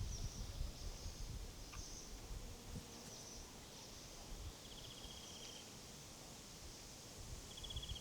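Faint rural outdoor ambience: small birds chirping in short high phrases, with a short buzzy trill twice, about halfway through and again at the end, over a low rumble.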